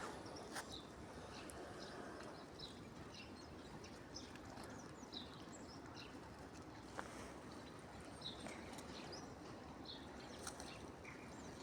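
Small songbirds at a feeder chirping in many short, high calls scattered throughout, over a steady low background hum, with a few brief sharp clicks.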